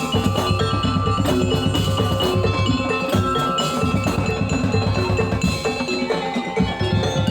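Percussion ensemble music: ringing tuned metal mallet instruments over continuous drumming.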